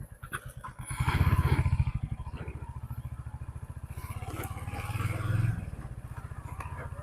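Motorcycle engine running with a steady pulsing beat, growing louder briefly about a second in and again around five seconds in.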